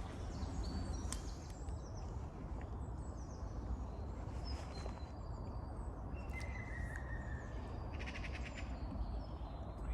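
Woodland birdsong: scattered short, high chirps, a held whistled note midway and a quick run of notes soon after, over a steady low background rumble.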